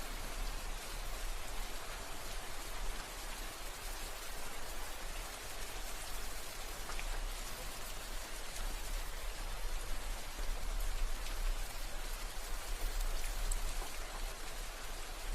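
Steady rain falling as an even hiss, with an occasional distinct drop standing out, over a steady low rumble.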